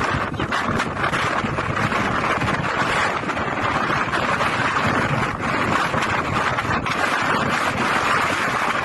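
Strong storm wind blowing against the microphone: a steady, loud rush of noise without a break.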